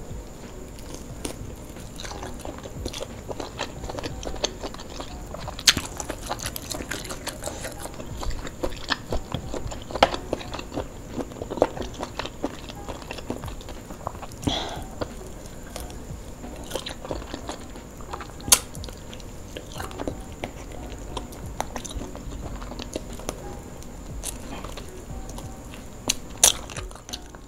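A person chewing and biting fried duck eaten by hand, with irregular crunches and clicks and a few sharper, louder crunches scattered through.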